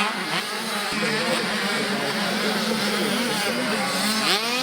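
Several small two-stroke motocross bikes racing, their engines revving up and down over one another, with one bike's engine sweeping sharply up in pitch near the end.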